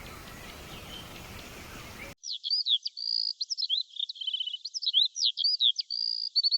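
A songbird singing a fast, varied song of high whistled sweeps, held notes and trills, cutting in abruptly after about two seconds of faint outdoor background with distant chirps.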